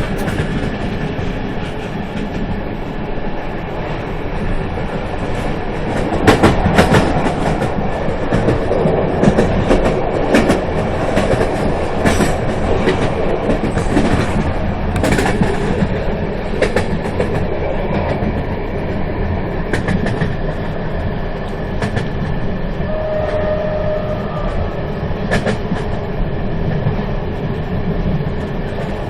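A moving train: a steady rumble of wheels running on the track, with irregular clacks as the wheels cross rail joints, busiest in the first half.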